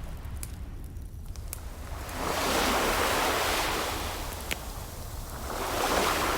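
Ocean waves breaking and washing ashore, two swells in a row, over a steady hiss of surf. A few sharp pops of a crackling wood fire come through between them.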